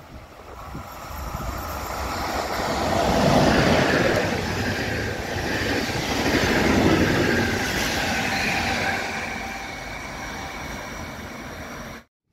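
A train passing on the railway line: its rumble and wheel noise build over the first few seconds, stay loud, then fade as it moves away, with a faint whine that falls in pitch. The sound cuts off suddenly near the end.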